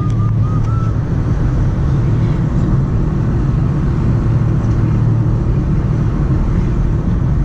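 Steady car engine hum and road noise heard from inside a moving car.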